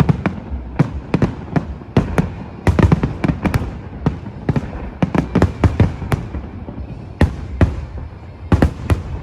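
Fireworks display: a rapid, irregular run of sharp bangs and cracks, several a second, over a continuous low rumble of booming shells.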